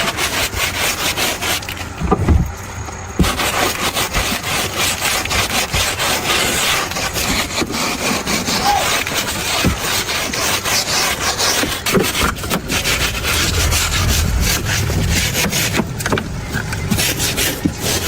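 Rapid, continuous hand rubbing or scraping strokes, like sanding, filing or sawing, with a short break about two seconds in.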